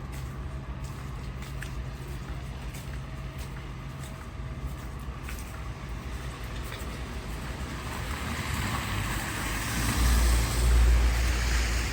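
A vehicle passing close by on a snowy city street, its tyre and engine noise swelling over the last few seconds and peaking near the end, over a steady low traffic hum.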